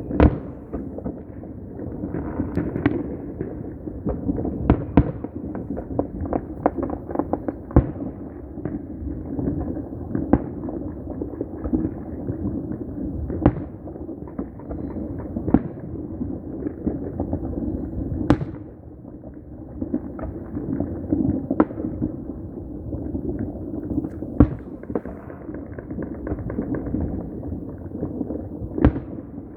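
Neighbourhood fireworks and firecrackers going off nonstop: a dense crackle and rumble of distant bursts, with sharp, louder bangs every second or two.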